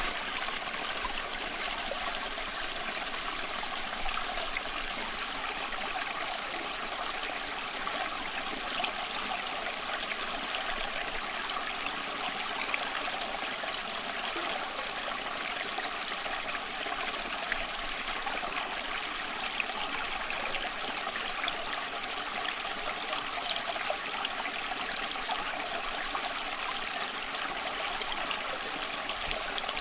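A small stream flowing steadily, with a continuous rush of water and fine trickling and splashing throughout.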